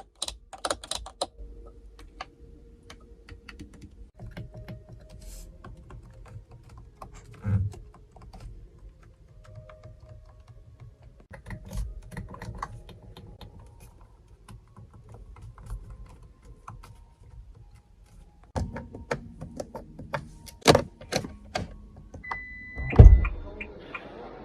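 A run of sharp clicks and taps with a few dull thunks; the loudest thunk comes a little before the end.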